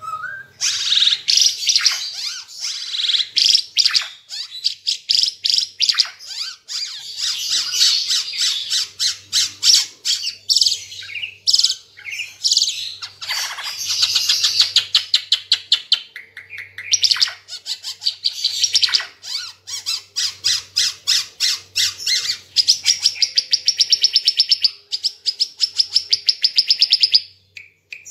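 Ara Timor songbird singing loudly and without pause, a dense string of high chirps and rapid trills, with long fast rattling trills in the second half. The song breaks off about a second before the end.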